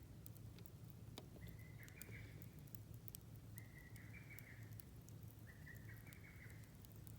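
Quiet outdoor ambience with a faint animal call, each about a second long, repeating about every two seconds, and a few small clicks.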